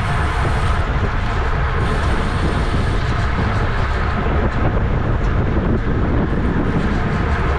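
Wind rushing over the microphone of a bicycle-mounted camera at racing speed, a steady loud roar mixed with tyre and drivetrain noise from the bike.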